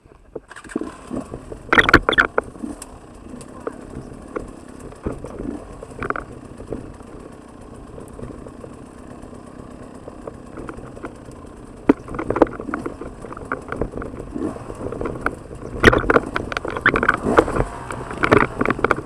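Trail motorcycle engine running at low revs, with irregular revving surges and clatter, the loudest about two seconds in and over the last few seconds.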